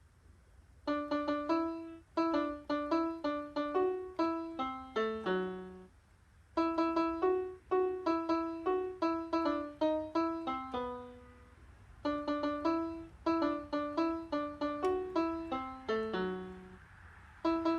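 Piano playing a Christmas song melody note by note, in short phrases separated by brief pauses.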